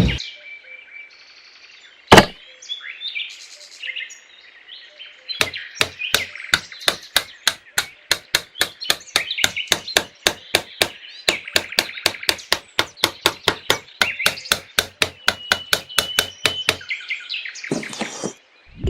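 A single sharp knock, then a long run of rapid, evenly spaced knocks at about three to four a second, with birds chirping in the background.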